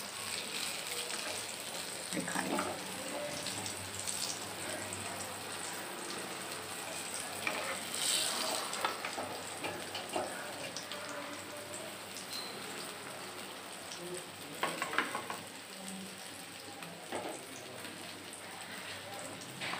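Masala-coated brinjal slices shallow-frying in hot oil in a pan: a steady sizzle, with a few short clicks of a spatula against the pan.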